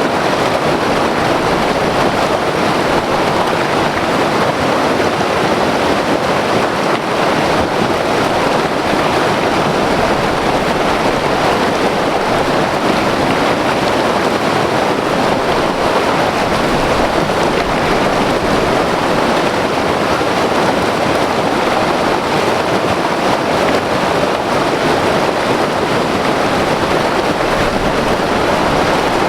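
A white water mountain river rushing over rocks: a loud, steady roar of turbulent water.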